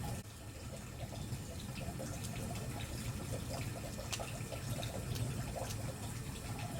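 Firewood burning in an open fire: scattered sharp crackles and pops over a steady low rush, with one louder pop about four seconds in.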